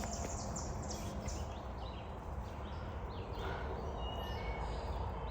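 Woodland ambience: scattered bird chirps and short whistled notes over a steady low rumble.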